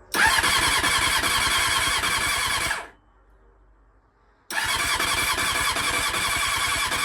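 Four-cylinder motorcycle engine cranked on its electric starter twice, about three seconds each time with a short pause between, turning over with a steady starter whine but not catching. The owner first blames the choke; cylinders 3 and 4 turn out to be flooded with fuel.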